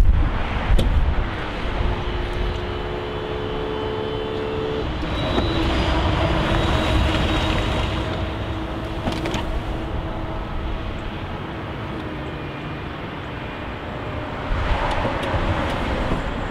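Power soft top of an Aston Martin Vantage roadster folding down under its motor. The motor hums steadily and steps up in pitch about five seconds in, over a low rumble.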